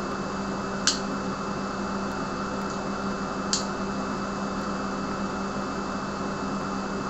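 Steady fan-like hiss with a constant low hum, broken by two short sharp clicks, about one second and three and a half seconds in.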